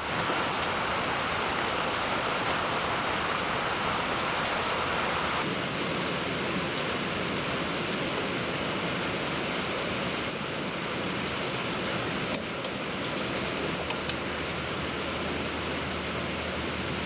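Steady rushing noise of rain, with a few sharp clicks about twelve and fourteen seconds in.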